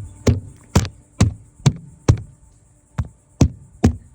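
Repeated sharp knocks on a hard surface, about two a second with a short pause in the middle, as someone taps to scare a trapped bird out.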